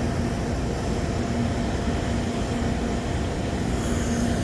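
Eighteen-wheeler semi-truck running: a steady engine drone under continuous heavy noise.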